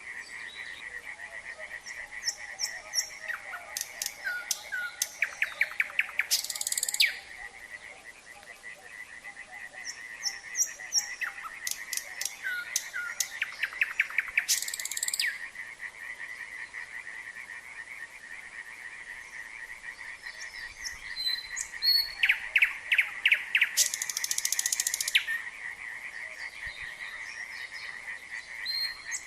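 A nightingale singing three phrases of whistles and rapid repeated notes, each ending in a harsh buzzing rattle, with pauses between. Underneath is a steady chorus of frogs calling.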